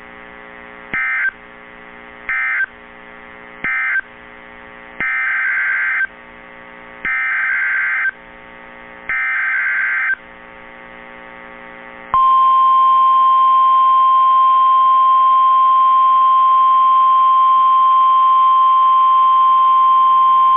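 NOAA Weather Radio alert signalling. First come three short bursts of warbling data noise, the end-of-message code closing the previous warning. Then three longer bursts of the same data sound, the SAME header for the next high wind warning. From about twelve seconds in, a steady single-pitch warning alarm tone sounds for about nine seconds, with a faint receiver hum in the gaps between bursts.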